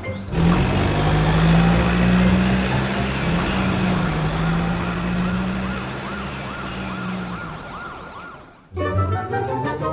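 A wavering, siren-like tone that rises and falls about twice a second over a steady low hum. It fades and cuts off suddenly near the end, followed by ringing, chime-like tones.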